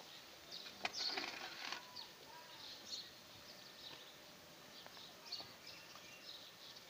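Faint chirping of small birds, short high calls scattered throughout, with a brief cluster of knocks and rustling about a second in.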